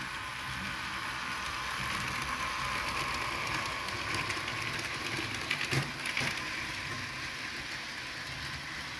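N-scale model train running along its track: a steady hum and rolling noise, with a short cluster of clicks about six seconds in.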